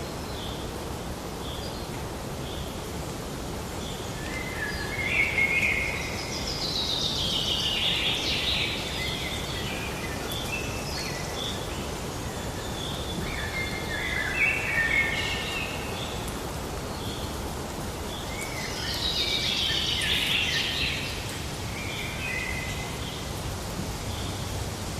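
Songbirds singing over a steady background hiss. Two longer phrases cascade downward in pitch, one a quarter of the way in and one near the end. Short high chirps repeat in between.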